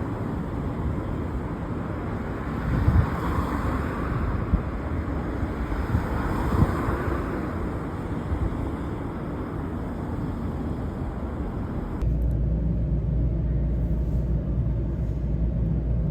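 Steady rumble of a moving vehicle, with a few light knocks in the first half; about twelve seconds in it switches abruptly to a deeper, louder rumble.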